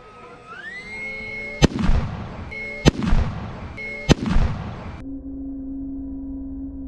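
Three loud pyrotechnic explosions of a mock battle, about a second and a quarter apart, each trailing off briefly, over a steady high whine that rises in pitch just before the first blast. About five seconds in, the sound switches abruptly to a duller steady hum.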